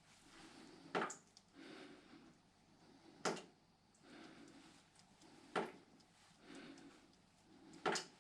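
A sharp click repeating evenly about every two and a half seconds, four times, with faint soft rustling between.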